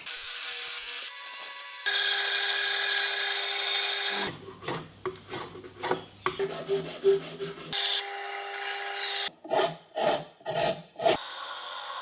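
Woodworking sounds in quick cuts: stretches of steady, hissing power-tool noise alternating with runs of short strokes on wood.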